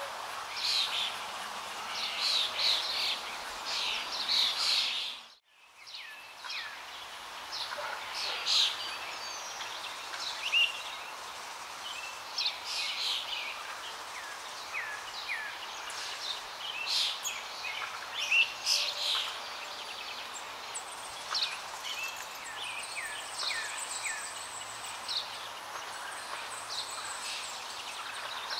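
Small birds chirping and calling over and over above a steady background hiss, with the sound cutting out briefly about five seconds in.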